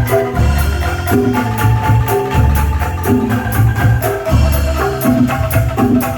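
Music played loud through a PA sound system, with a marimba-like melody, heavy bass pulses and a steady fast percussion beat.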